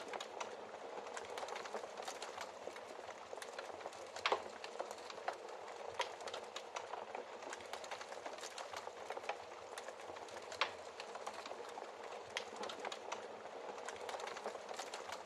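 Wood fire burning in a fireplace: a steady crackling hiss with frequent irregular pops and snaps, the sharpest about four, six and ten and a half seconds in.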